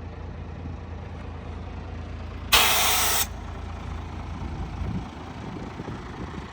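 International mixer truck's Navistar diesel engine idling with a steady low rumble, and about two and a half seconds in a sudden loud hiss of compressed air from the truck's air system, lasting under a second and cutting off sharply.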